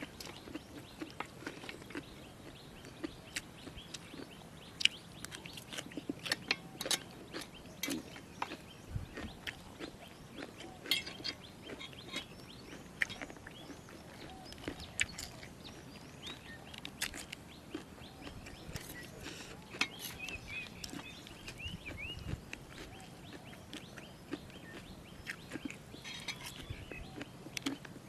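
Crunchy chewing and biting of jellyfish salad close to the microphone, sharp clicks scattered throughout, with birds chirping now and then in the background.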